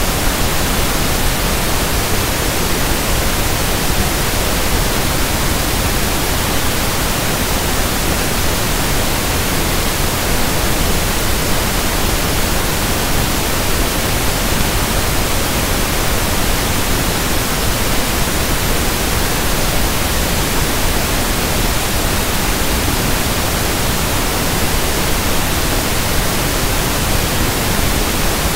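Steady synthetic pink (1/f) noise: an even, unchanging hiss spread across all pitches.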